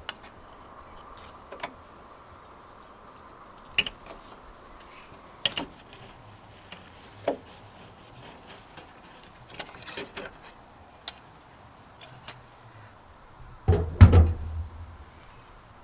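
Scattered sharp clicks and knocks of a headlight unit and its fixings being worked loose from a VW Polo 86's front end, with a louder clatter and thud near the end.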